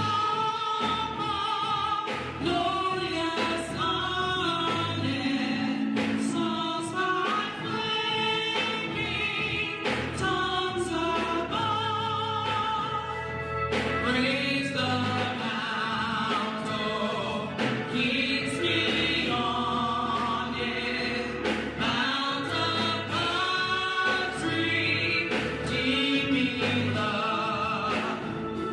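Worship music: a choir singing a sacred song with strong vibrato over low instrumental accompaniment.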